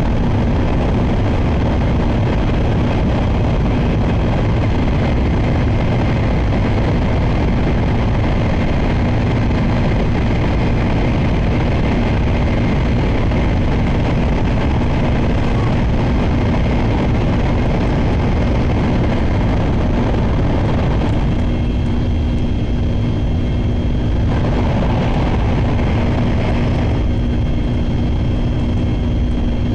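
Inside the cabin of a Shinkansen bullet train running at speed: a loud, steady rumble of running and wind noise with a constant low hum. The upper part of the noise drops away for a few seconds twice in the last third.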